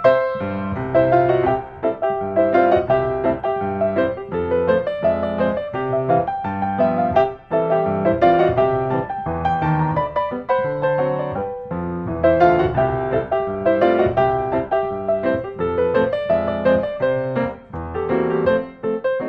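Lively piano music, a steady run of quick notes in the style of silent-film accompaniment.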